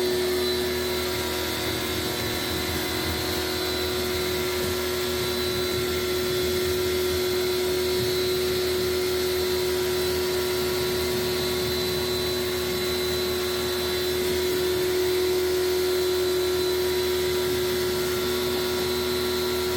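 A small electric motor running steadily with a constant whine and rushing hum, like a vacuum or blower.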